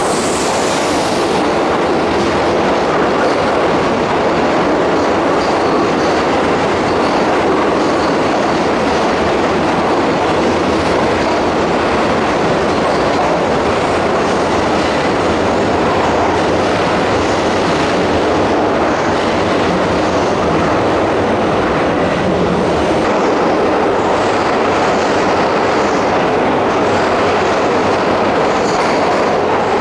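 Keihan Main Line electric train running through the station platform: a steady, loud rumble of wheels on the rails.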